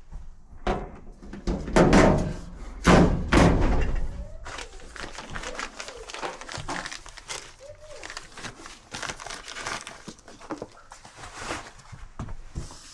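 Two loud, heavy thunks about two and three seconds in, then a long run of lighter clicks and knocks.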